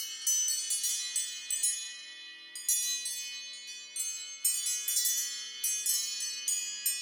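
An Apple ringtone playing a melody of bright, high chime notes, each struck sharply and ringing away before the next.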